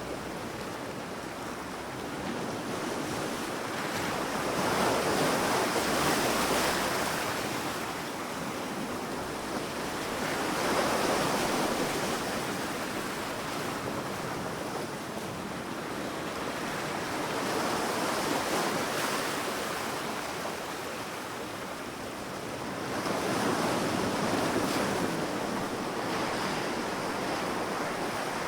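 Sea waves washing onto a sandy beach, a steady surf hiss that swells as four waves come in, roughly every six seconds.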